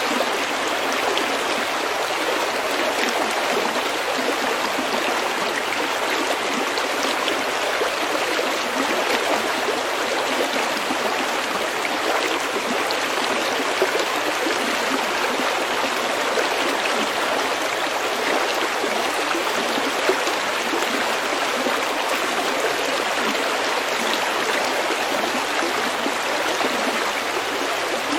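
Small stream running steadily over pebbles, a continuous even babble of flowing water, with a couple of slightly louder splashes.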